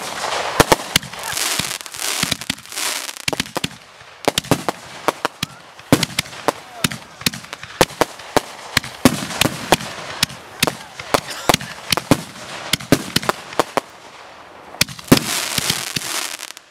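A multi-shot consumer fireworks cake firing: a rapid run of sharp bangs as shells launch and burst, several a second, over continuous crackling. There are brief lulls about three seconds in and again near the end.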